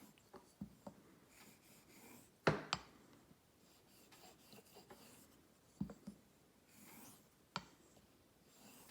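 Straight razor blade being honed on a water stone: soft scraping swishes of the edge sliding across the stone, with sharp clicks of the blade meeting the stone, loudest about two and a half seconds in.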